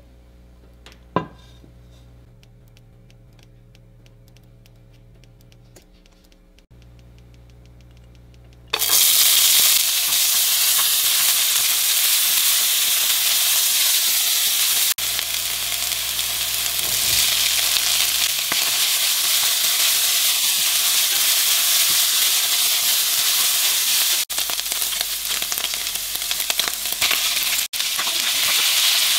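Food frying in a hot pan: after a quiet start with a single click, loud sizzling begins suddenly about nine seconds in and continues.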